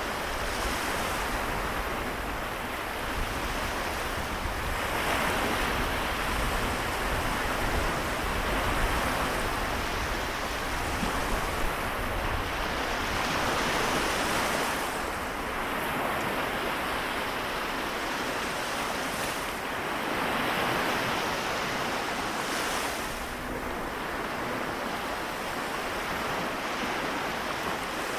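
Seto Inland Sea waves washing in, a steady hiss of surf that swells every few seconds as each wave breaks.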